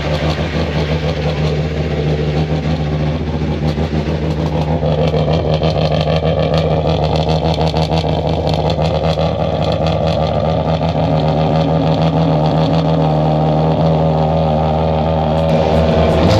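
A car engine idling steadily, a low even pulsing note that grows slightly louder.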